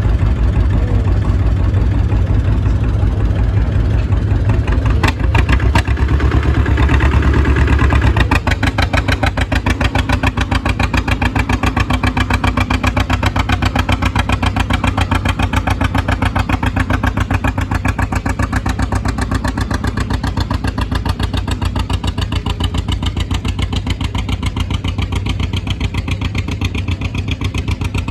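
Tractor engine running loud, heavy and low for the first eight seconds or so, then settling into a steady, even pulsing beat at a slightly lower level.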